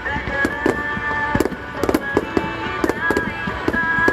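Aerial fireworks bursting in quick succession, sharp bangs about two or three a second, over a pop song playing at the same time.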